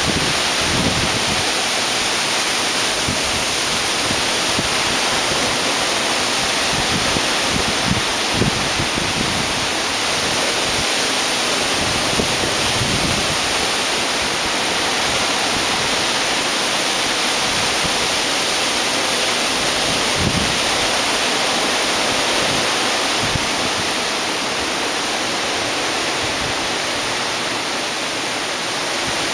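Hurricane Sandy's storm wind making a steady rushing hiss, with gusts buffeting the microphone now and then.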